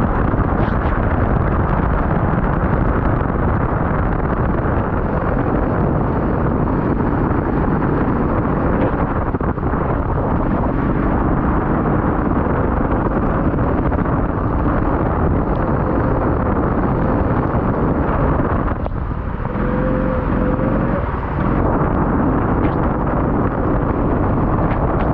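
Off-road vehicle driving, a loud steady rumble of engine and wind buffeting on the microphone, with a faint whine that wavers in pitch, clearest about three quarters of the way through.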